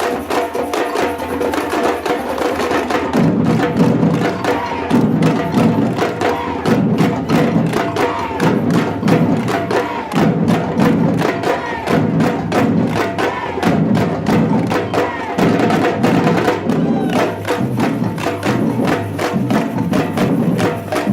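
A batucada samba percussion group playing a fast, driving rhythm; the deep bass drums come in about three seconds in.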